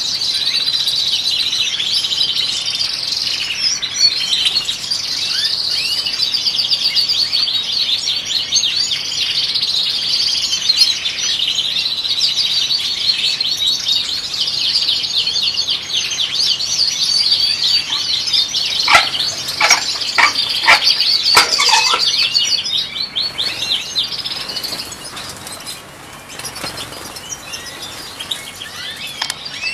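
European goldfinches singing: a fast, continuous run of bright twittering chirps that thins out and drops away about three-quarters of the way through. A handful of short sharp ticks come in quick succession shortly before the song fades.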